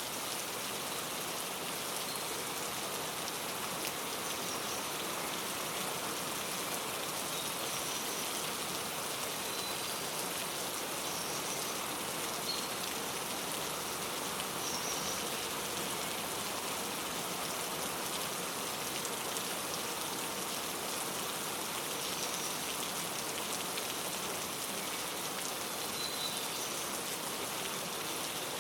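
Steady rain falling, with faint, short bird chirps now and then above it.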